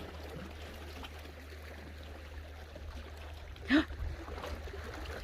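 Sea water washing at the shore as a steady wash of noise over a low rumble of wind on the microphone. One short, loud cry cuts through about three-quarters of the way in.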